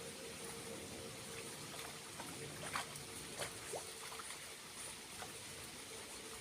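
Thin stream of water trickling from a small waterfall, with a few separate drops plinking about halfway through.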